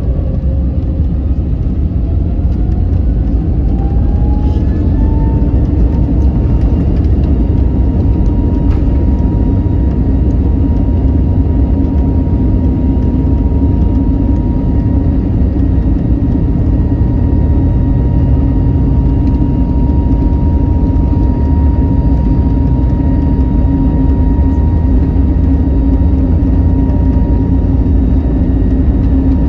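Airbus A321neo's engines, heard from inside the cabin, spooling up: a whine rises over the first few seconds and then holds a steady pitch over a loud, steady rumble, as the engines come up to takeoff thrust.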